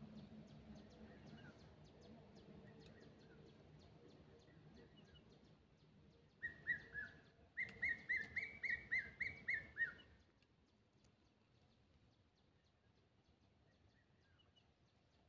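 A bird calling from the trees: a little past halfway, a pair of short, sharp, down-slurred notes, then after a brief pause a quick run of about nine more, over a faint low background hum that fades away.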